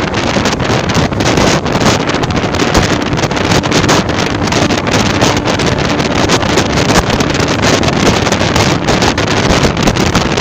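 Loud wind buffeting the microphone from a moving EMU local train, over the steady rumble of the train running on the track.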